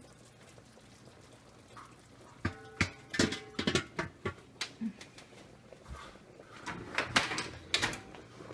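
Kitchen clatter of pots and dishes: a run of knocks and clinks, one ringing briefly about two and a half seconds in.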